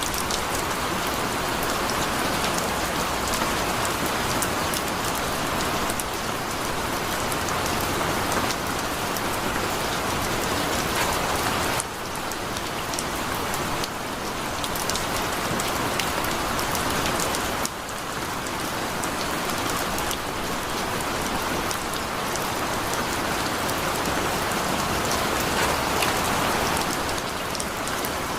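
Heavy rain falling steadily: a dense, even hiss with individual drops ticking on a surface.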